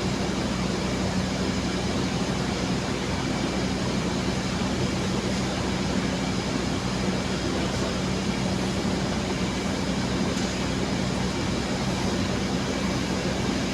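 Steady hum of a stationary passenger train idling: an even mechanical drone with a constant low tone that does not change.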